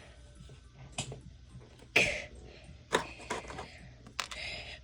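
Sharp plastic clicks and taps, roughly one a second, the loudest about two and three seconds in, from handling an action figure while trying to pull off one of its swappable hands.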